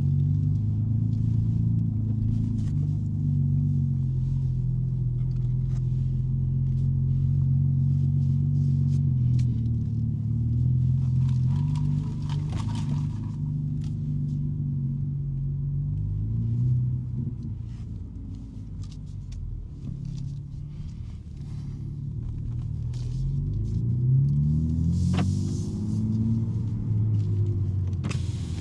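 2023 BMW M3 G80's twin-turbo straight-six with a non-resonated J-pipe exhaust, running steadily at low revs while driving. Its note rises once as it accelerates, about four-fifths of the way in.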